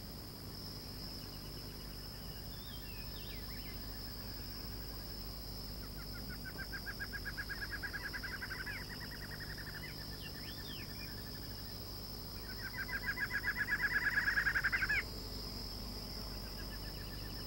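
Barred antshrike song: two rapid rattling runs of notes, the second louder, swelling and ending abruptly. Behind it runs a steady high insect drone, with a few faint short chirps.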